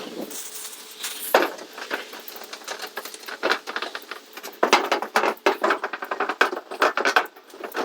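Metal roof panel being scrubbed clean by hand: a run of quick, scratchy strokes and clicks, busier and denser in the second half.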